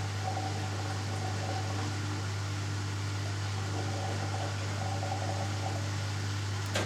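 Hoover Dynamic Next washing machine in its second interim spin: the drum motor runs with a steady low hum. A single sharp click comes near the end.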